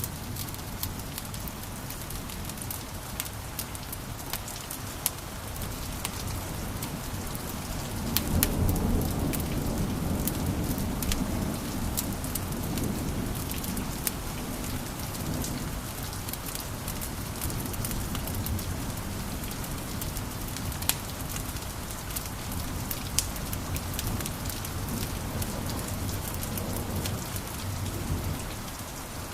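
Wood fire crackling in a fireplace: a steady hiss of burning with many sharp pops and snaps, and a low rumble of the flames that swells about eight seconds in.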